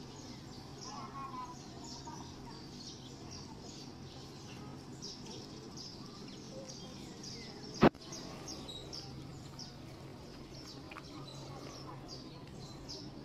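Small birds chirping, many short high chirps repeating over a low, steady background murmur. A single sharp click about eight seconds in is the loudest sound.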